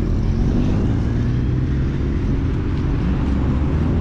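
A car's engine and road noise on the move, a steady low drone.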